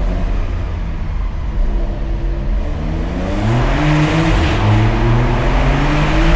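Porsche 992.2 Carrera Cabriolet's flat-six engine running steadily, then accelerating from about two and a half seconds in, its note rising in pitch as a rushing noise builds.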